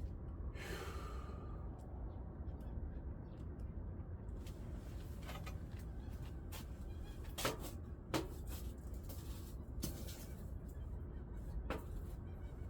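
Firewood burning in a wood stove: scattered crackles and pops over a steady low roar, with a short falling squeal about half a second in.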